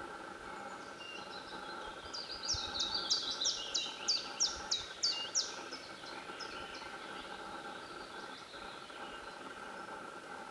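A bird calling: a run of about a dozen sharp, high, downward-slurred notes over about three and a half seconds, beginning about two seconds in, over a steady background hum.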